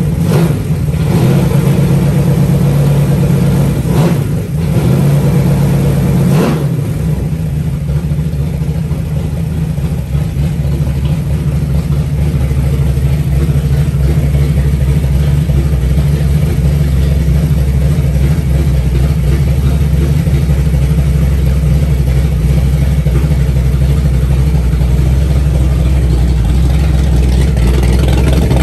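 360 stroker V8 engine running on a stand or in the car, with a few brief changes in the first seven seconds, then settling into a steady idle.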